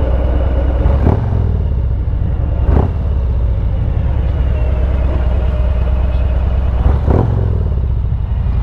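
Harley-Davidson Road Glide's V-twin engine running steadily under the rider, with three brief sharp knocks about one, three and seven seconds in.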